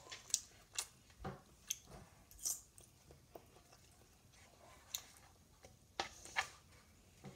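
A child chewing and eating cooked egg close to the microphone, with soft, irregular mouth clicks and smacks.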